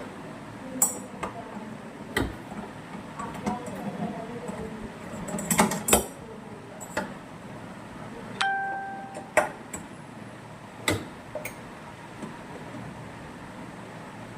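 Scattered sharp metallic clinks and knocks of hand tools and metal parts being handled while a top-load washing machine is taken apart, with one brief ringing metal tone a little past the middle.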